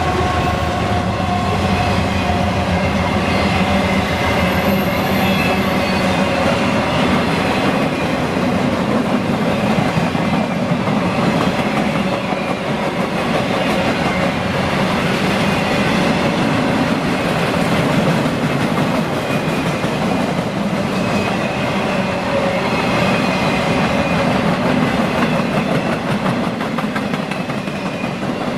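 Freight train rolling past: a loud, steady roar of steel wheels on the rails, with some clickety-clack. The falling tone of a locomotive horn fades out in the first second or two.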